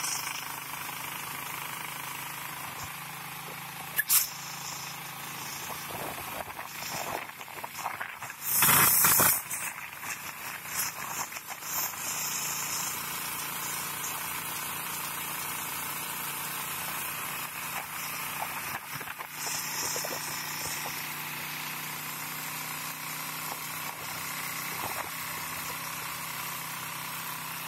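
Motorcycle tricycle (motorcycle with sidecar) engine running steadily at cruising speed, with road and wind noise. A short sharp knock about four seconds in and a loud rush of noise about nine seconds in.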